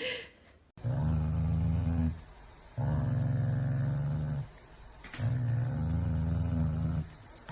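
Three long, low growls in a row, each held steadily for about a second and a half with short pauses between, from a dog.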